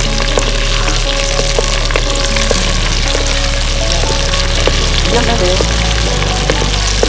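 Chopped green chillies and greens sizzling in hot oil in a clay pot, stirred with a wooden spatula that gives light knocks against the pot now and then.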